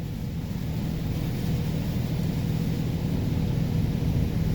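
OPW Laserwash 360 Plus touchless car wash running its high-pressure rinse: a steady rush of water spray and low rumble heard from inside the car, growing slightly louder.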